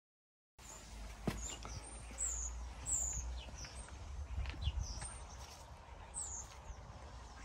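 Birds chirping: many short, high, falling calls at several pitches, over a low rumble on the microphone, with a sharp click about a second in.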